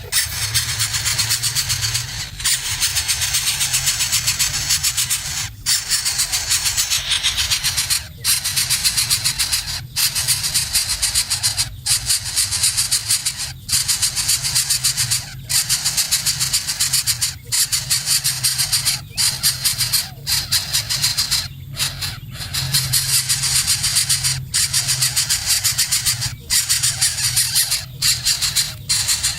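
Baby birds begging with continuous harsh, rasping, high-pitched calls, broken by short pauses every couple of seconds.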